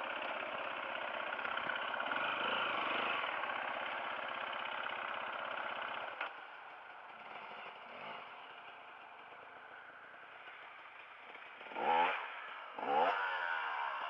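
Dirt bike engine running, dropping to a quieter idle about six seconds in, then two quick throttle blips near the end, each a sharp rise and fall in pitch.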